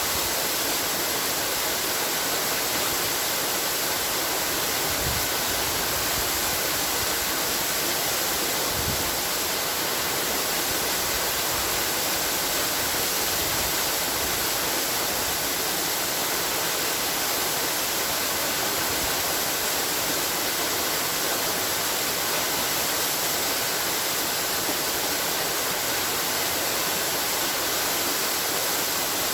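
Waterfall: a steady rush of falling water, even and unbroken, with most of its sound in the hiss and little low rumble.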